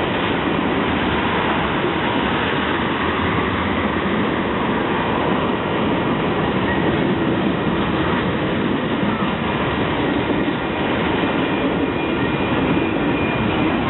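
A train passing close by on the tracks, a steady rolling noise of its wheels on the rails.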